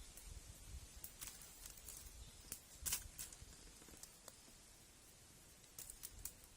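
Faint scattered clicks and light rustling from hands working, with a short cluster of sharper clicks about three seconds in.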